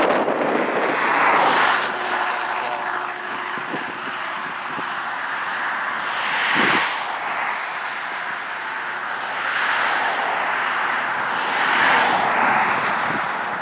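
A steady rushing noise that swells and fades about four times, with a faint low engine-like drone in the first few seconds.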